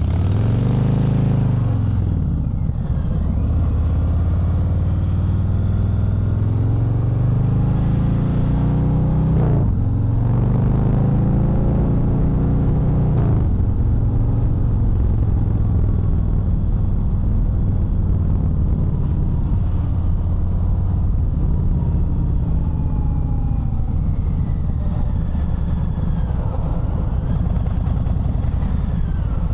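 Harley-Davidson Fat Bob 114's Milwaukee-Eight 114 V-twin accelerating through the gears: the engine note climbs, drops sharply at each upshift (around ten seconds in and again a few seconds later), then runs fairly steady at cruising speed.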